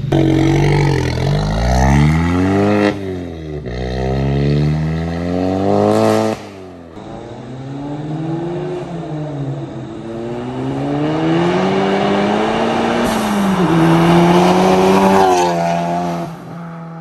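Turbocharged four-cylinder engine of a Mk7 VW GTI running an IS38+ big turbo, accelerating hard through the gears. The engine note climbs and drops back at each upshift, several times over, with a break about six seconds in.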